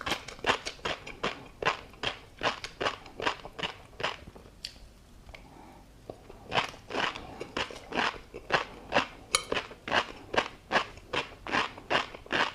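A person chewing food close to the microphone: wet mouth smacks and crunches, about three chews a second, with a pause of about two seconds in the middle.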